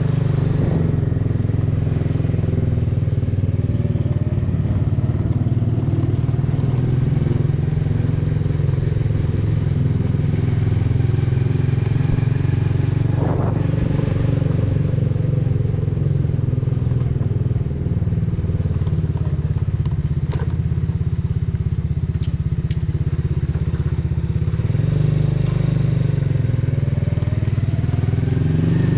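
Exhaust of a 125cc motorcycle running steadily while riding, its engine note rising in the last few seconds as it speeds up.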